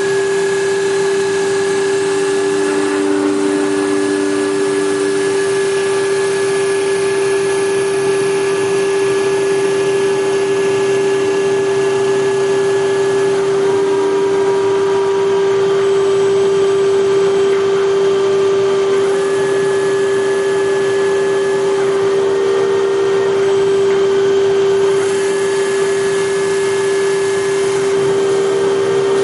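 Hager HD300A-CNC computer-controlled wood lathe running: a steady, high-pitched motor whine over continuous machine noise, with fainter tones coming and going every several seconds.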